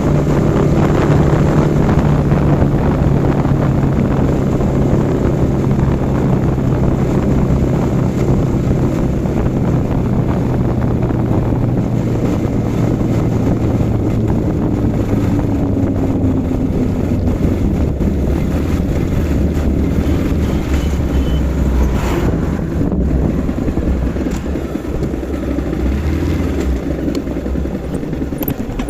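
Yamaha R15 V4's single-cylinder engine running on the move, with wind rushing over the microphone; the engine note falls slowly as the bike eases off and slows.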